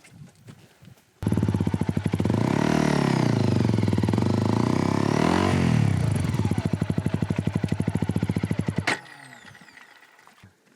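Honda CRF250L single-cylinder four-stroke engine revving hard, rising and falling in pitch twice, as the bike is forced through deep mud where its wheel digs in. The sound comes in abruptly about a second in and cuts off sharply near the end.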